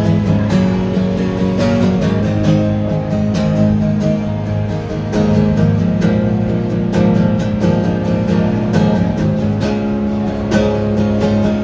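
Live acoustic guitar strumming chords steadily, with no singing: an instrumental passage right after the vocal line of a song ends.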